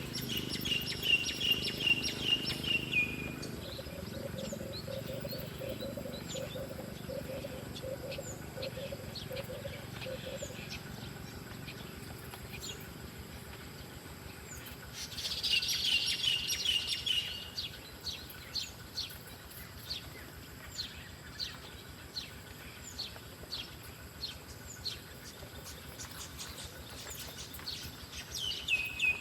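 Wild songbird singing: a short phrase of rapid high notes ending in a trill, given three times (at the start, about halfway and at the end), with scattered short chirps in between. A lower, rapidly pulsing sound runs from a few seconds in to about ten seconds.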